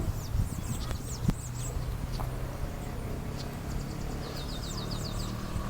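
Small birds chirping in short, high, falling notes, with a quick run of about eight notes about four seconds in. Under them a low steady hum, and a single sharp click just over a second in.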